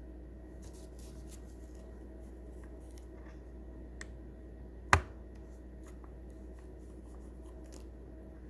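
Light ticks and taps of small plastic instrument-cluster parts being handled while a gauge needle is refitted, with one sharp click about five seconds in, over a steady low hum.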